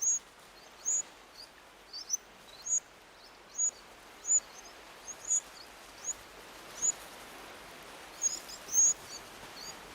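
Short, high chirps of a Eurasian wren, about a dozen of them spaced less than a second apart, over a faint steady hiss.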